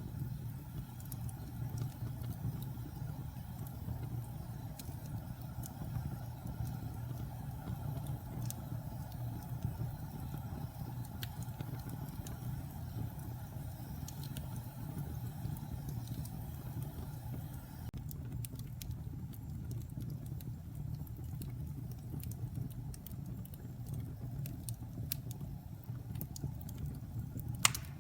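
Wood fire in a fireplace burning with a steady low rumble and scattered sharp crackles, one louder pop near the end.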